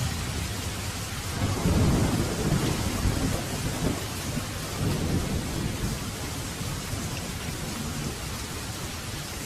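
Heavy rain falling steadily, with a roll of thunder that swells about one and a half seconds in, peaks soon after and rumbles away over the next few seconds.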